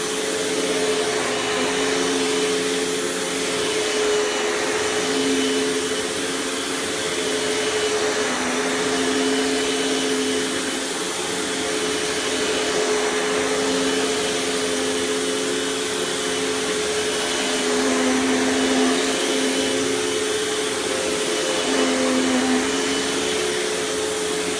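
Panasonic Performance Plus Platinum MC-UG589 upright vacuum running steadily: a 12-amp clean-air motor with an even rush of air, a steady mid-pitched whine and a lower hum that fades in and out every few seconds.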